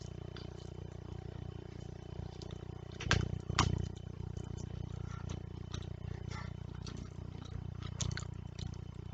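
Close-miked eating sounds from fish curry and rice eaten by hand: short wet mouth smacks and clicks over a steady low hum, with two louder smacks about three seconds in.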